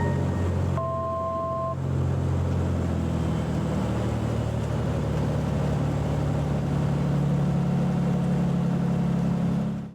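Cabin drone of a Cessna T182T's turbocharged six-cylinder Lycoming engine and propeller, steady, with a slight shift in pitch partway through. A short electronic beep of two notes together sounds about a second in.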